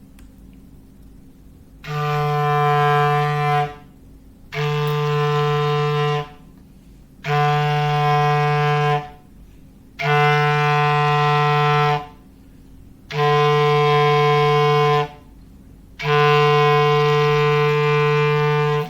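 Foghorn sound effect: six steady, low blasts on one pitch, each about two seconds long, with short pauses between them. The last blast is the longest.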